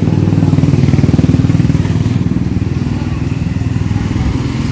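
Small motorcycle engine running at low revs close by, a fast steady pulsing that swells a little about a second in and then eases.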